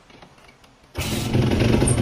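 Dirt bike engine with a freshly cleaned Keihin FCR carburettor starting up abruptly about a second in and running steadily, after a quiet first second with a few faint clicks.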